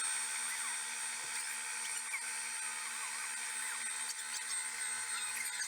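Ronco electric pasta maker running steadily, its motor turning the paddle to mix the dough, with a constant hum and a high whine.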